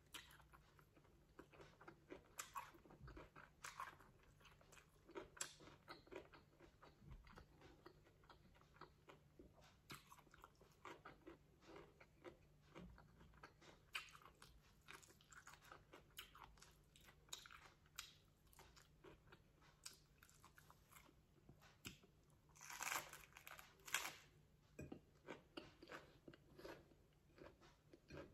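Close-miked chewing and crunching of a lettuce-leaf taco filled with meat: a steady run of small crisp crunches, with a louder burst of crunching a few seconds before the end.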